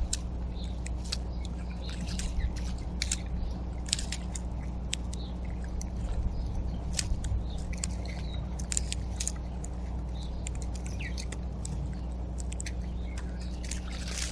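Small backyard birds at a feeder giving many short, sharp chip calls at irregular intervals, over a steady low hum.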